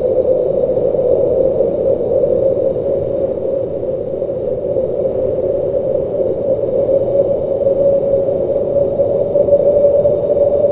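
Blizzard wind blowing, a steady, even rush with slight swells and no thunder claps.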